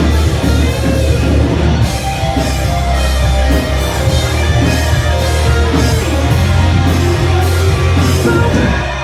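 Rock band playing live at full volume, with electric guitar and a drum kit over a heavy low end.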